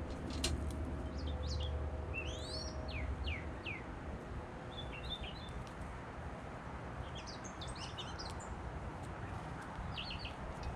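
Small birds chirping in short scattered calls, with a run of quick downward-sweeping notes about two seconds in, over a low steady rumble that fades after the first few seconds.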